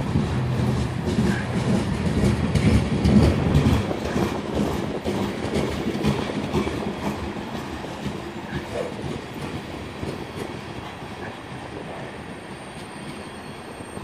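Freight cars of a CSX trash train rolling past at speed, steel wheels rumbling and clicking over the rail joints. Loudest a few seconds in, then slowly fading as the last cars go by.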